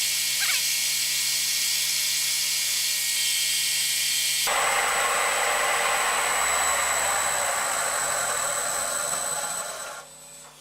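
Bridgeport Series I milling machine running with its spindle turning while centre-drilling steel: a steady hissing machine noise with a few steady tones. The sound changes abruptly about halfway through, and it falls away near the end.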